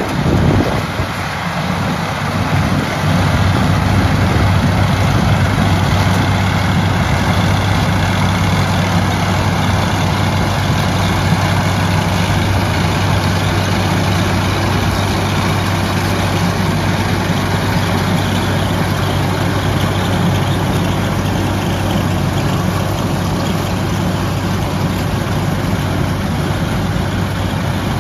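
Heavy engine running steadily with a deep, even drone and a dense mechanical clatter over it, growing louder over the first few seconds and then holding level.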